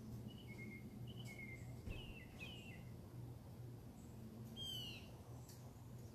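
Wild birds calling: a run of short chirps in the first few seconds, then one louder down-slurred call about four and a half seconds in, over a steady low hum.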